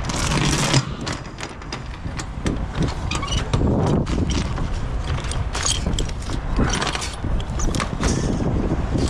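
Wind buffeting the microphone, with many irregular metallic clinks and rattles from load-securing chains being handled.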